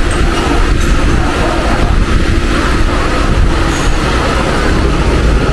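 Mumbai suburban local train running, heard from on board: a steady, loud rumble of the wheels on the rails.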